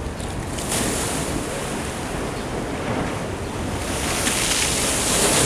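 Ocean surf washing in, a steady rush that swells near the end, with wind buffeting the microphone.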